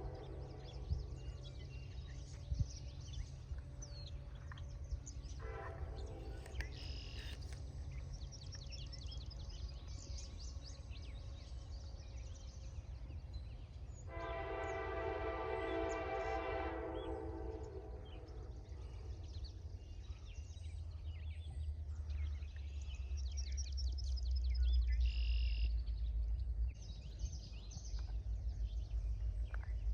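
Freight locomotive's K5LA air horn sounding a brief note and then, about halfway, a long blast, over the steady rumble of a long intermodal freight train passing that grows louder near the end.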